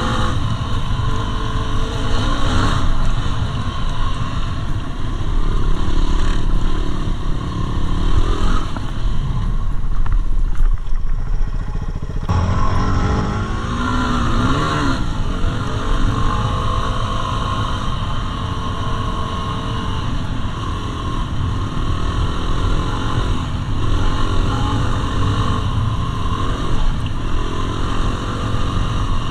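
Yamaha WR250R's single-cylinder four-stroke engine running while ridden, its pitch rising and falling with the throttle. The revs drop back for a couple of seconds about ten seconds in, then climb again.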